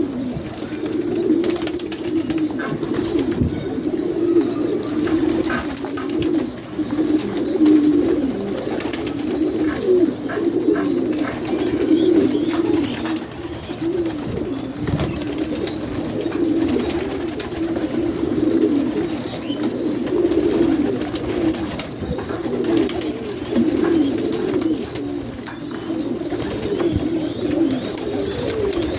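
Domestic pigeons cooing continuously, several birds at once, low and warbling, with scattered faint clicks and scratches.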